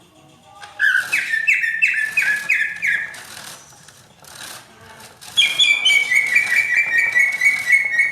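Greater green leafbird (cucak ijo) singing in two runs of rapid, repeated slurred whistled notes: the first starts about a second in, and the second follows after a pause of about two seconds.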